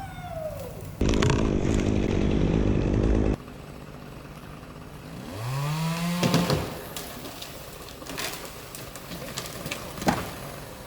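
Chainsaw running hard for about two seconds, starting and stopping abruptly. A few seconds later a motor revs up in pitch and levels off, and a single sharp knock comes near the end.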